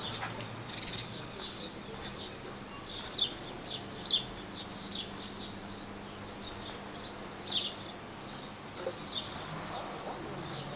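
Small birds chirping: a scattered series of short, falling chirps, loudest about three, four and seven and a half seconds in, over a faint steady hum.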